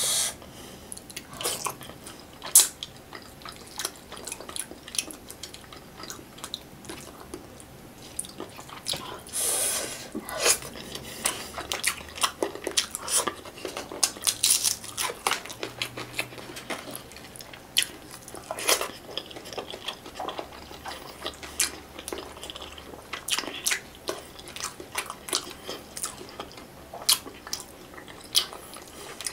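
Close-miked eating sounds: wet chewing and lip smacks of someone eating tilapia, in many short, irregular clicks and smacks.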